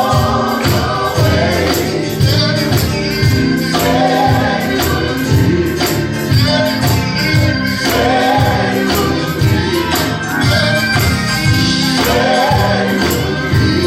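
Live gospel worship music: a choir singing over a band, with a tambourine shaken steadily to the beat.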